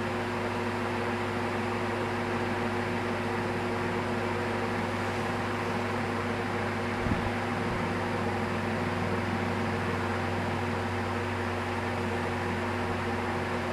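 Canarm CP36 36-inch industrial ceiling fan running at medium speed: a steady electrical hum over a wash of moving air. The owner puts the hum down to the solid-state speed control. A brief low thump comes about seven seconds in.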